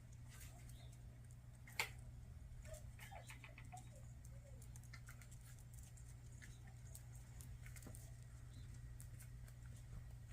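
Backyard hens moving about: faint scattered taps and clicks of pecking and scratching, with a few soft, short clucks about three seconds in, over a steady low hum. One sharper click comes about two seconds in.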